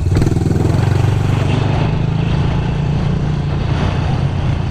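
Small off-road vehicle engine running steadily up close, with its note wavering a little.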